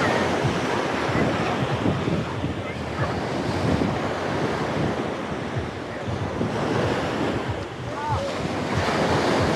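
Sea waves washing onto the beach, swelling and easing every few seconds, with wind buffeting the microphone.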